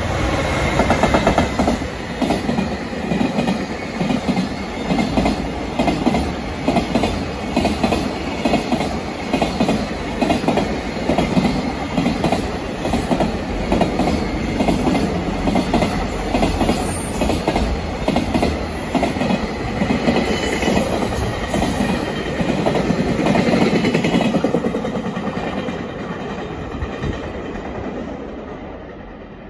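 JR Freight EF210 electric locomotive and its train of container wagons passing at speed, the wheels clacking in a steady rhythm over the rail joints. The sound fades away over the last few seconds as the end of the train recedes.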